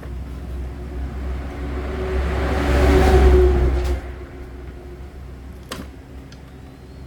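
An engine running with a steady low hum, revving up over about three seconds and dropping back sharply about four seconds in.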